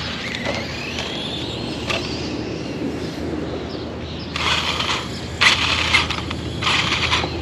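Electric RC car driving: a faint motor whine rises early on, over a steady low rumble. Three loud bursts of scraping hiss follow in the second half, as the car's wheels spin and scrabble.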